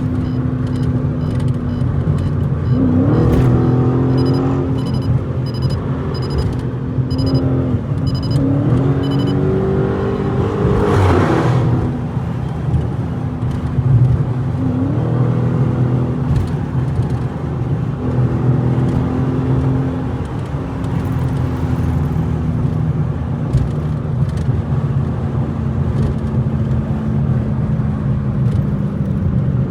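Straight-piped Dodge Challenger Scat Pack V8 heard from inside the cabin with the windows up, accelerating hard several times: the engine note climbs and drops back with each upshift, with a steady drone between pulls.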